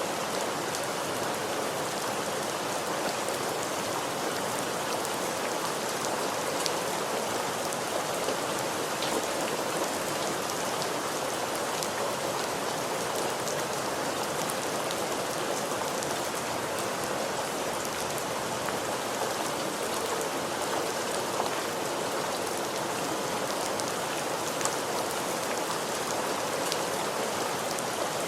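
Steady rain falling, an even hiss of drops with occasional sharper individual drop ticks scattered through it.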